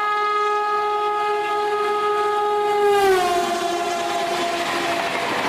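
Express train's horn blowing one long steady note as the train comes up at speed; about three seconds in the pitch drops as it passes, and the rushing noise of the train grows.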